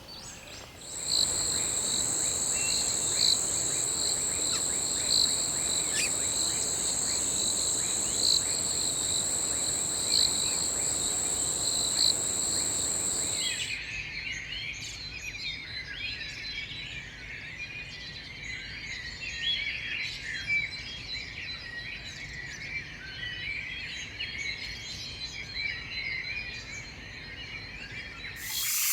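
Jungle ambience. For the first half a steady, high-pitched insect drone with a regular pulse about every two seconds sounds over a hissing background. It cuts off suddenly halfway through, and a busy chatter of many bird chirps takes over.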